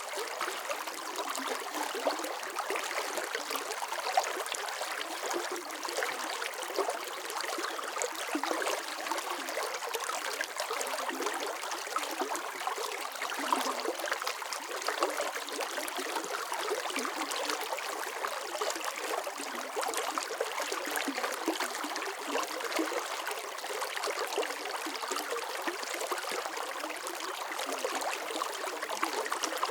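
Running water flowing and trickling steadily, a busy splashing babble with no breaks.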